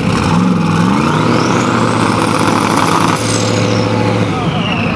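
Race car engine revving up and accelerating, its pitch climbing in the first second, with a high whine that rises and then falls away.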